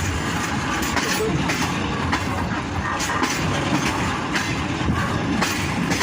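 Passenger train running along the track, with a steady rumble and irregular clacks of the wheels over the rail joints.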